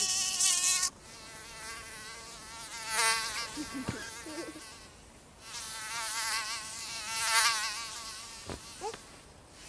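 A mosquito's high whine, its pitch wavering as it flies close and away. It cuts off sharply about a second in, then comes back fainter, swelling and fading several times.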